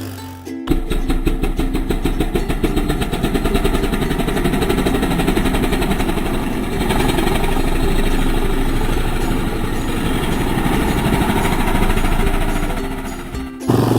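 A vehicle engine running steadily with a fast, even pulsing. It starts abruptly just after the start and cuts off abruptly shortly before the end.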